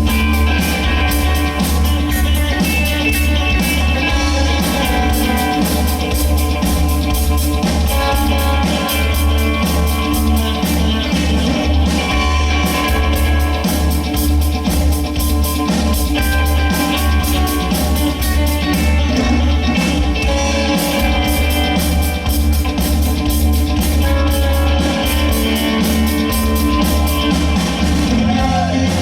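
Live rock band playing: electric guitar over bass and drums, with a steady beat.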